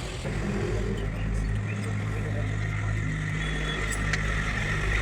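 A heavy truck's diesel engine running steadily at low revs.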